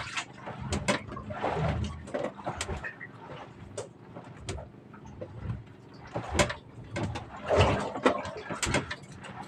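Irregular sharp knocks and clicks of gear being handled, with two longer scraping, rustling bursts about one and a half and seven and a half seconds in.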